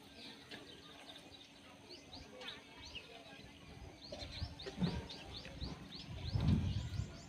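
Small birds chirping: short repeated chirps that become a fast run of several a second in the second half. A couple of low thuds stand out louder in the second half.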